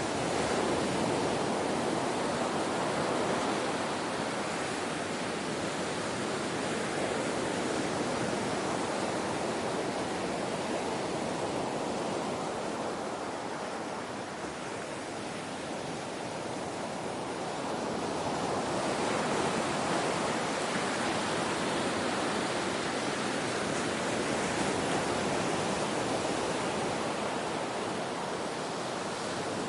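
Ocean waves washing on a shore, a steady rush of surf that swells and eases slowly, quieter for a few seconds around the middle.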